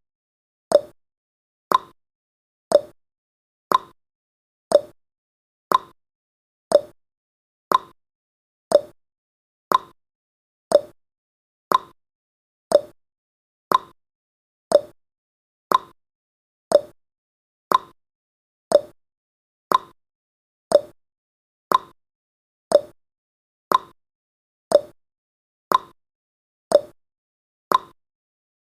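Clock ticking sound effect of a countdown timer: one short click each second, alternating higher and lower in pitch like a tick-tock, evenly and without a break.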